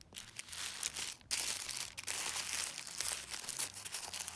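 Packaging crinkling and rustling as purchases are handled, a dense run of small crackles that stops briefly about a second in.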